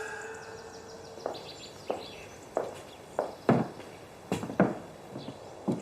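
Footsteps: about eight separate steps, unevenly spaced, each a short sharp knock. A faint steady tone fades out in the first second.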